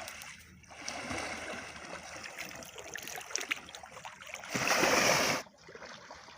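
Water splashing and trickling as a person bathes in a dam's reservoir, with one louder rush of splashing water about four and a half seconds in, lasting under a second.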